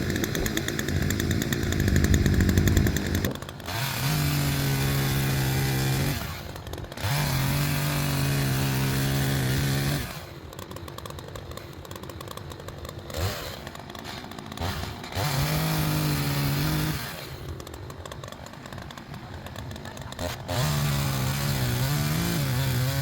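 Chainsaw bucking logs: at full throttle through a cut for the first few seconds, then revved up in four more bursts of two to three seconds each, dropping back to idle between them.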